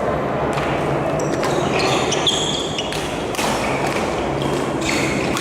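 Badminton rally: rackets hitting the shuttlecock several times, with short high squeaks of court shoes on the floor between the strokes.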